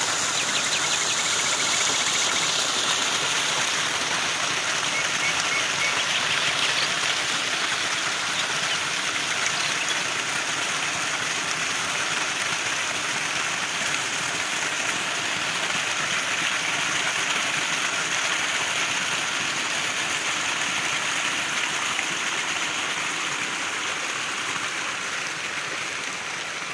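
Steady rush of flowing or falling water, even and unbroken, with a few faint high chirps in the first few seconds.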